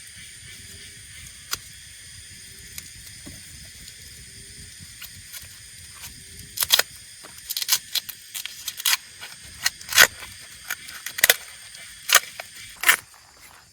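A steady high-pitched insect drone, with a run of sharp, irregular cracks and clicks starting about halfway through, which are the loudest sounds.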